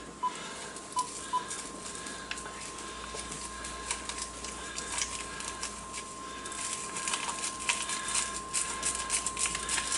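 Small ration packets of instant coffee, sugar and whitener being torn open and emptied into a cup: scattered light ticks and crinkles, turning into busy crackling rustle in the second half. A steady faint high tone runs underneath.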